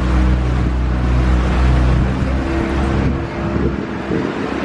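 River tour boat's motor humming steadily, fading out about three seconds in, after which wind rumbles on the microphone.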